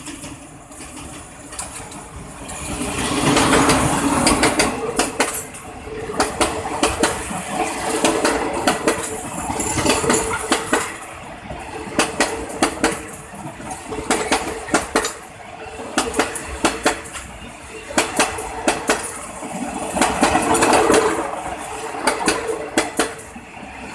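Train of empty passenger coaches passing close by behind a diesel locomotive: wheels clacking over the rail joints in repeated groups of sharp clicks as each bogie crosses, over a steady rumble. The sound swells loudest about three seconds in and again near the end.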